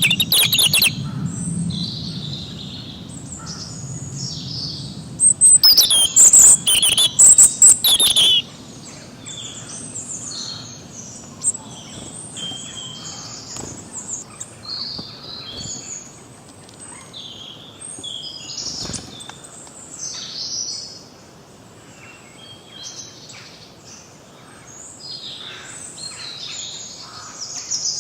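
Several forest songbirds chirping and singing at once. Loud, dense bursts of song come near the start and again from about five to eight seconds in, followed by quieter, scattered chirps and trills.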